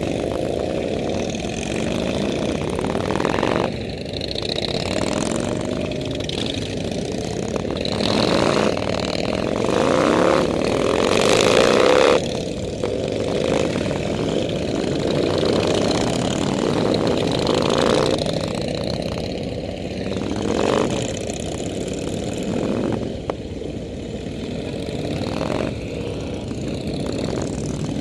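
Several motorcycle engines running together, their pitches rising and falling as they rev and ease off, loudest about ten to twelve seconds in.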